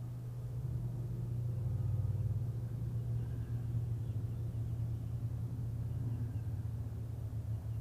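Steady low mechanical hum, a little louder about two seconds in.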